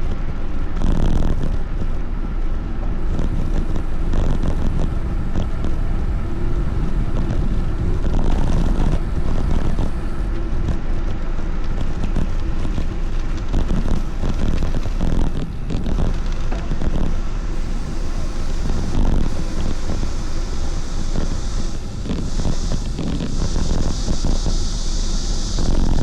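Steady wind noise buffeting the microphone of a moving rider, with no let-up.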